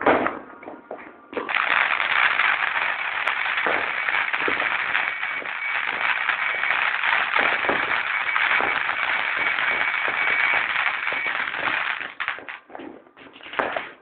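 Fireworks going off: a sharp bang at the start, then about ten seconds of dense, continuous hissing crackle with a faint steady whistle in it, breaking up into scattered pops near the end.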